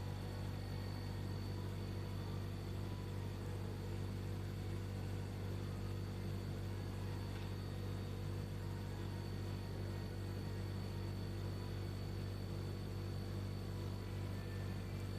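Steady low electrical or machine hum with a faint high whine above it, unchanging throughout.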